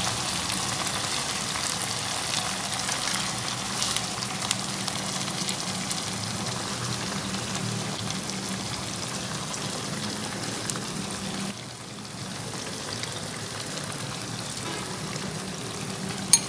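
Curry masala sizzling and bubbling in a nonstick wok as pieces of fish are laid in, a steady crackle of small pops. The sizzle drops a little about twelve seconds in, and a single sharp click comes near the end.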